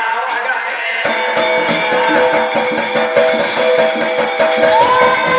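Live folk music: rapid jingling percussion with steady held instrumental notes coming in about a second in, and a singing voice rising in near the end.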